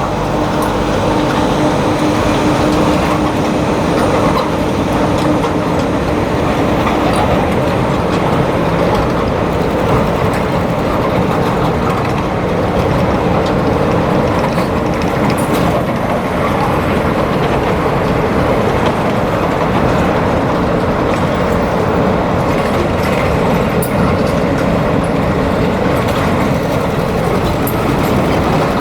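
ONCF phosphate freight train running past: a steady rumble and rattle of wheels on rails, with a steady hum that stops about halfway through.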